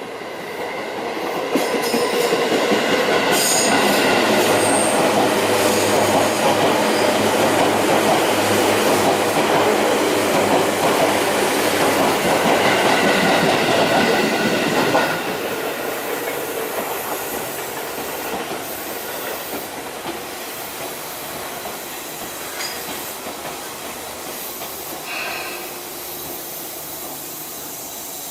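Electric train running into the station platform, its wheels clattering over the rail joints and squealing. It builds up over the first couple of seconds, stays loud until about halfway, then drops off suddenly and fades as the train slows.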